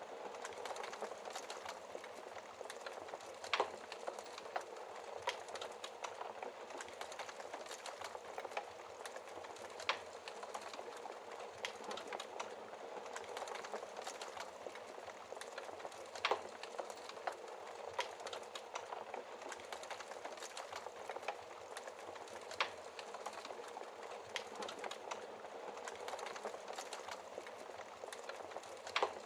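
Wood fire crackling steadily in a fireplace, with many small snaps and an occasional louder pop every few seconds.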